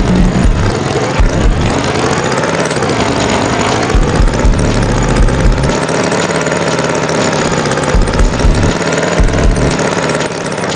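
Tractor engine running, its pitch rising and falling, with repeated low thumps.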